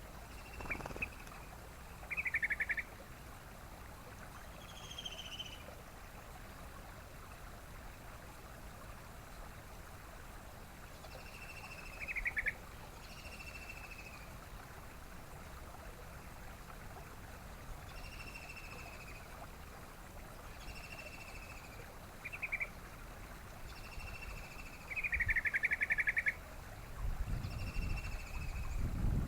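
Yellow-vented bulbul (trucukan) calling: short bright notes every second or few, some sliding down, with two brief rattling trills, the longer one near the end. A steady background hiss runs throughout, and a low rumble comes in over the last couple of seconds.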